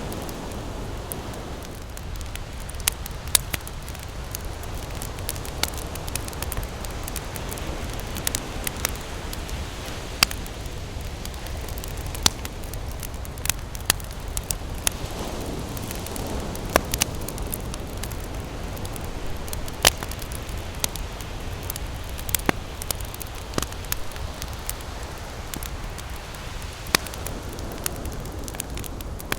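Campfire crackling, with irregular sharp pops scattered throughout, over the steady low rush of ocean waves that swells up a few times.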